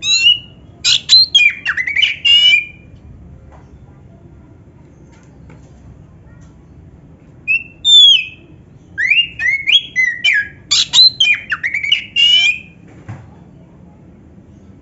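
Oriental magpie-robin (kacer) singing in two loud bouts of varied whistles and quick trills, with canary-style phrases worked in. The bouts are a few seconds apart.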